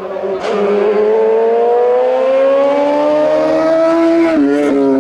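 Race car engine accelerating hard, its pitch climbing steadily through one gear for about four seconds, then dropping sharply near the end with an upshift before pulling again.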